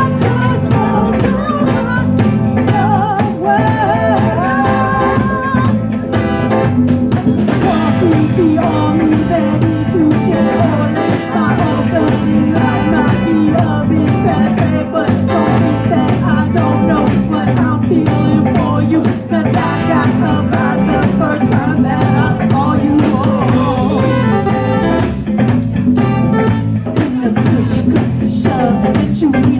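A band playing a continuous piece of music with guitar, in a blues or rock style.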